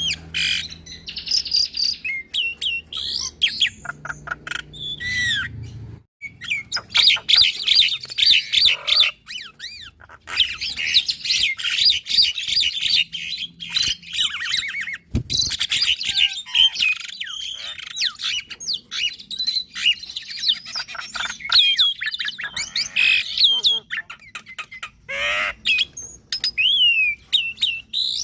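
Javan myna and black-winged myna singing together: a busy, near-continuous chatter of rapid whistles, chirps and harsh squawks, with short pauses about six and ten seconds in.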